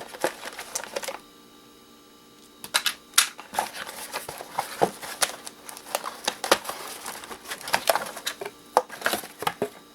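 Small metal and plastic parts of an electronic device clicking and clattering irregularly as it is taken apart by hand, with a short quieter pause a little over a second in.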